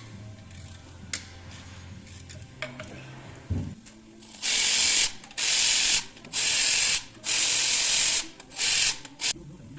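A few faint clicks from work on the engine and a knock, then five short, loud blasts of hissing spray, each well under a second, with brief gaps between them.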